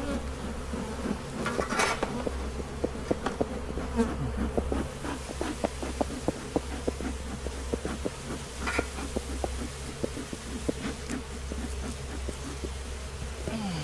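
Honeybees buzzing around an opened hive: a steady hum from the colony, with many short buzzes as individual bees fly close past, several a second. The bees are roused and defensive, disturbed by the hive being opened.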